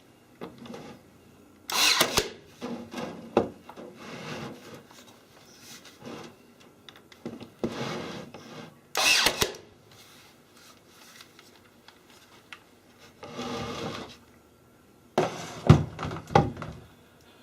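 Irregular bursts of scraping and rubbing, each about half a second long, with a few sharp knocks. The loudest come about two seconds in, about nine seconds in and near the end.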